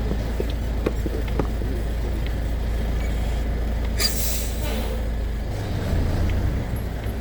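Truck engine running with a steady low drone, broken about four seconds in by a short sharp hiss of air from the air brakes. The engine note shifts near the end.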